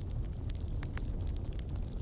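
Wood fire burning in a fireplace: a steady low rumble of flames with frequent sharp crackles and pops of burning wood.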